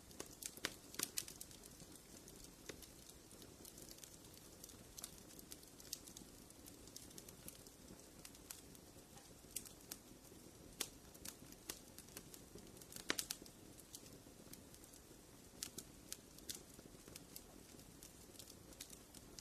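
Wood fire in a fireplace crackling: irregular sharp pops and snaps over a soft low hiss, with a cluster of louder pops about two-thirds of the way through.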